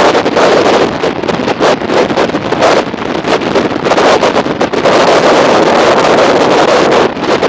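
Strong wind buffeting the microphone of a motorcycle at riding speed: a loud rushing noise that rises and falls in gusts.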